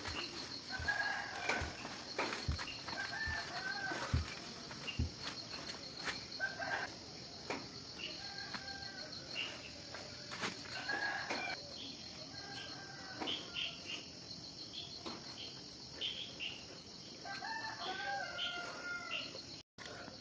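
Short pitched animal calls, most likely a bird's, repeated every second or two over a steady high insect hiss, with a few soft knocks in the first seconds.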